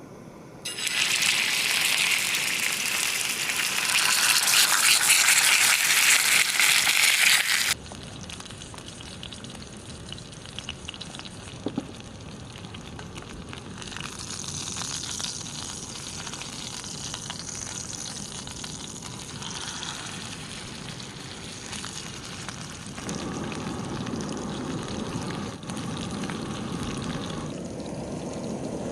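Food sizzling in a hot pan, loud for the first several seconds and cutting off abruptly, then quieter sizzling and cooking noise.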